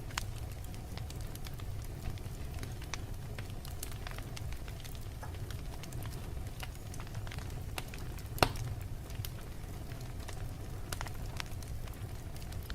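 Fireplace fire crackling: scattered sharp pops over a steady low rumble, with one loud pop about eight and a half seconds in.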